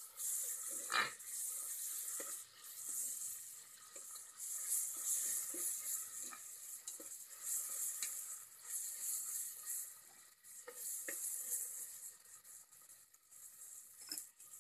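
Fried onions and ginger-garlic paste sizzling in hot oil in an aluminium pressure cooker, with a steady high hiss. A metal spoon stirring the onions and paste clicks and scrapes against the pot now and then, most sharply about a second in.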